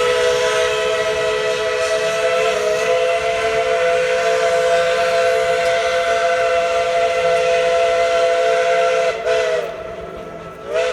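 Steam locomotive No. 12's whistle sounding one long blast of several steady tones, with steam hiss. It cuts off about nine seconds in, and a brief short toot follows near the end.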